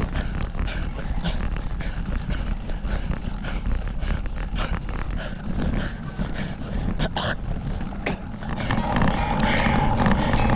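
Wind buffeting an action camera's microphone on a bicycle ride: a steady low rumble with scattered clicks and rattles. Steady tones come in over it near the end.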